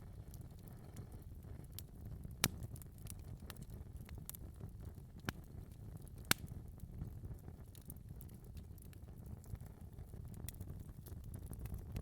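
Wood fire burning in a fireplace: a steady low rumble of flames with scattered sharp crackles and pops, the loudest about two and a half seconds in and again about six seconds in.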